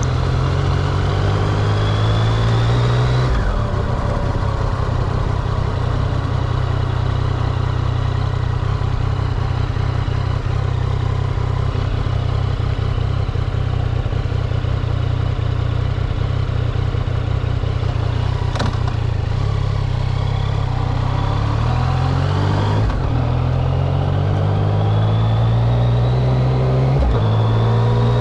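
Yamaha XSR900's three-cylinder engine under way: it pulls up in pitch through the gears at first, with a shift about three seconds in, then runs at a steady speed, and picks up again through two more gear changes near the end. Wind and road noise run under it.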